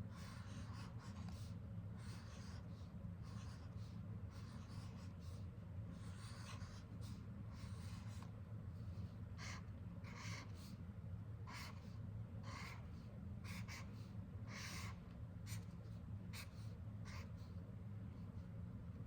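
Sharpie fine point permanent marker drawing on paper: short scratchy strokes at irregular intervals, several in quick succession in the middle stretch, over a steady low hum.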